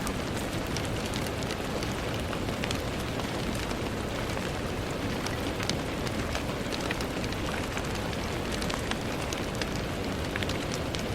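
Steady rain against a window: an even hiss with many small, scattered drop ticks through it.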